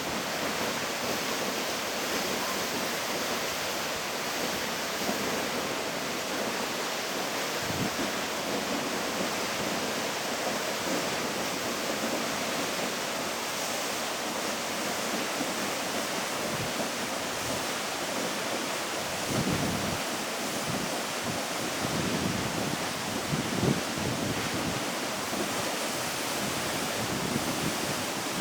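Latourell Falls pouring down, a steady rush of falling water with no change in level. Low rumbles of wind on the microphone come in briefly about eight seconds in and again several times in the second half.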